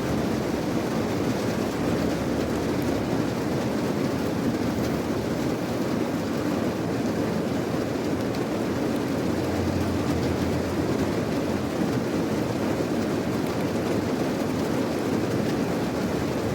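Steady rain: an even, unbroken hiss of rainfall with a low rumble beneath it.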